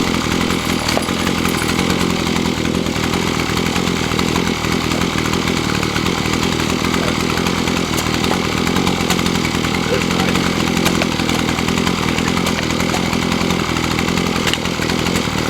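Gas-powered post hole auger engine running steadily at a constant speed.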